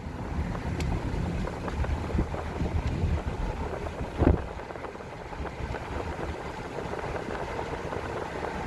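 Low, steady rumble of a moving vehicle, with road and wind noise, and a single thump about four seconds in.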